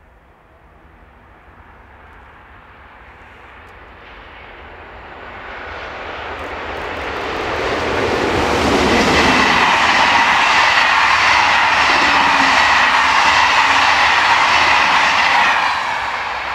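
Train approaching and passing at speed: the sound builds for several seconds, a tone drops in pitch as the front of the train goes by, then comes a loud steady rush of wagons rolling past with a regular wheel clatter, fading near the end.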